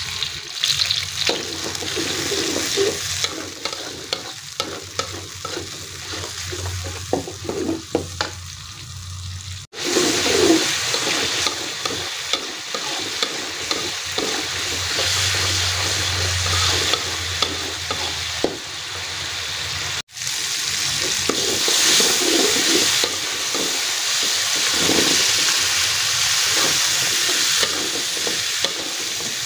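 Ground chilli-and-shallot spice paste sizzling in hot oil in a metal wok, with a spatula stirring and scraping it as it is stir-fried until cooked through. The sizzle cuts out for an instant twice.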